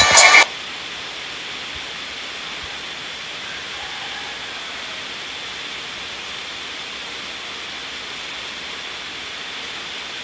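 Steady, even hiss with a faint high steady tone in it, after a short loud burst of noise right at the start.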